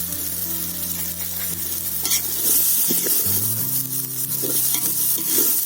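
Sambar masala with chilli powder frying and sizzling in a pan as it is stirred, the masala beginning to catch and stick to the bottom.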